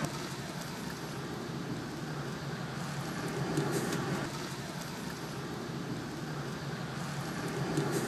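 Steady low background rumble, like distant traffic or a running motor.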